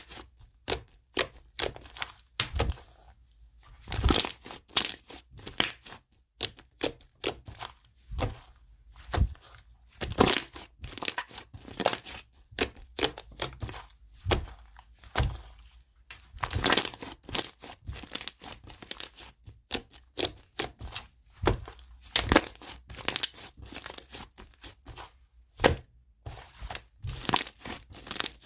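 Hands playing with a cream slime: a steady run of irregular sticky crackles, pops and squelches as it is pressed, stretched and folded.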